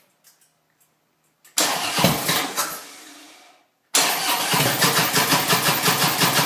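Harley-Davidson V-twin turned over on its electric starter without catching: a short crank about a second and a half in that dies away, then steady cranking with an even chug of about five pulses a second from about four seconds in. The engine cranks but won't start.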